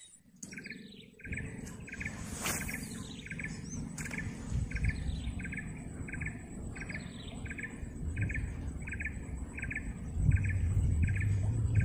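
A bird calling over and over, a short note repeated evenly about twice a second, starting about a second in. Under it runs a low rumble that grows louder near the end.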